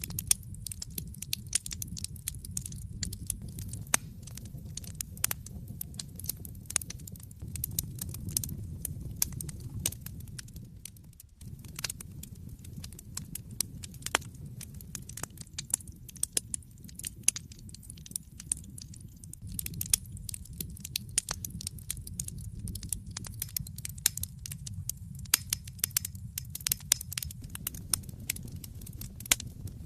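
Wood fire crackling in a fireplace: many irregular sharp pops and snaps over a low, steady rumble of the flames, which dips briefly about eleven seconds in.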